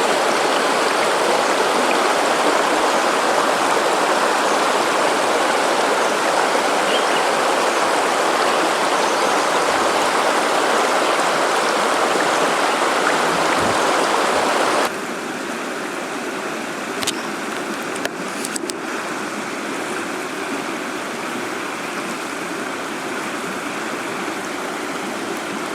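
River water flowing as a steady rush. About fifteen seconds in it cuts suddenly to a quieter, softer flow, with a few light clicks soon after.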